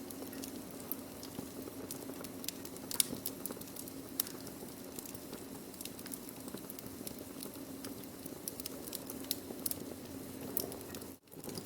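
Burning wood crackling, with irregular sharp pops and snaps over a steady low rumble and hiss. The sound cuts out for a moment about 11 seconds in.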